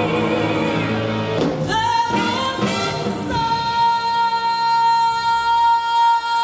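A female pop singer singing over backing music, then holding one long high note steadily from about halfway through.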